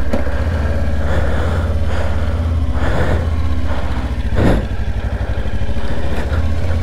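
Kawasaki Ninja 500 parallel-twin engine running steadily under way, with a steady low hum and a rush of noise over it; a brief louder swell about four and a half seconds in.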